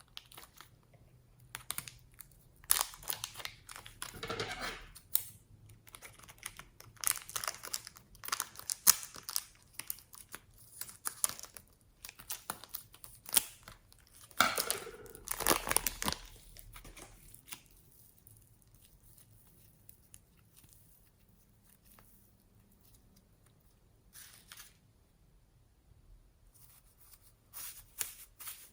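Close-up crinkling and tearing handling sounds in irregular bursts, busy for about the first two-thirds, then a quiet stretch and a few short bursts near the end.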